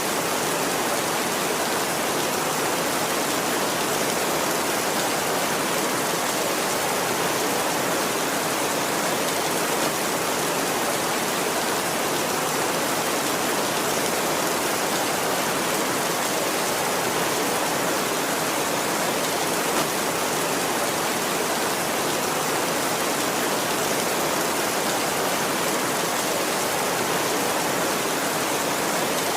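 Steady heavy rain: an even, unbroken hiss with no thunder in this stretch.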